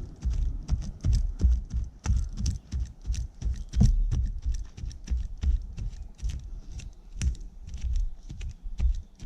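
Small hand shovel digging into soft forest floor: a run of irregular dull thuds and scrapes, about two or three a second, as a fire spot is cleared out.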